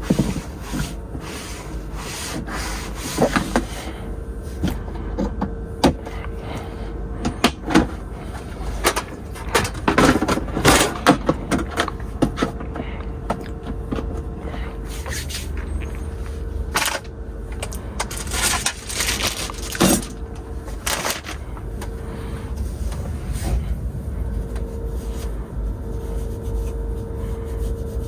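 Scattered knocks, clicks and scraping of objects being handled, over a steady low rumble with a constant hum.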